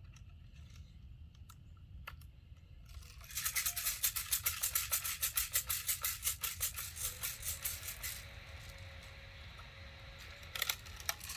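A rapid rattle of light, sharp clicks starts suddenly about three seconds in, about ten a second, and fades out over about five seconds; a few louder single clicks follow near the end.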